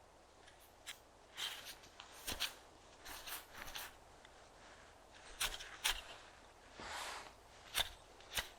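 A run of irregular crunches and rustles, about one or two a second, with a few sharper clicks: leaf litter or soil being disturbed.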